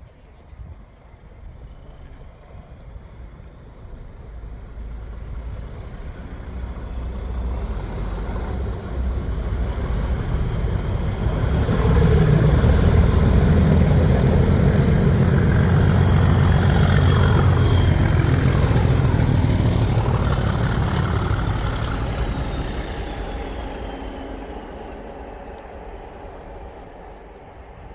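Diesel-locomotive-hauled train passing at speed. It builds over several seconds and is loudest for about ten seconds, with heavy engine noise and a high whine that falls in pitch, then fades away.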